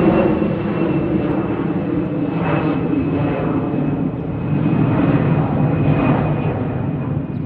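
An airplane's engines at takeoff power: a loud, steady roar with a thin, steady high whine over it, swelling and easing slightly.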